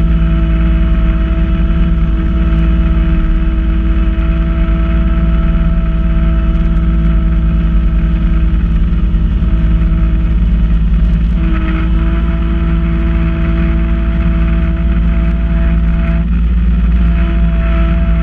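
Kubota B2650 compact tractor's three-cylinder diesel running steadily while driving a front-mounted B2782 snow blower, with a steady whine over the low engine rumble. The whine wavers briefly about 11 seconds in and again around 16 seconds.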